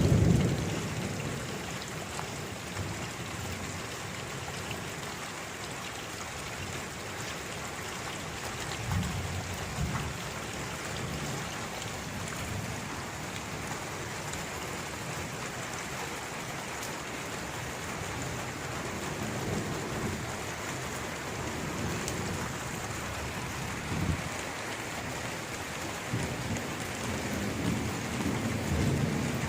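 Steady rain falling, with low rolls of thunder: one just fading at the start, then several more through the middle and near the end.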